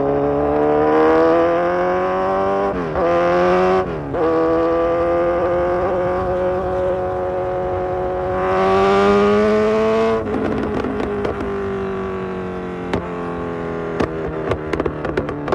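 2022 Kawasaki Z900's inline-four engine through an Austin Racing full exhaust, accelerating hard with two quick upshifts (the pitch drops sharply about three and four seconds in), then pulling up through the revs again. About ten seconds in the throttle closes and the engine winds down, with exhaust pops and crackles on the overrun near the end.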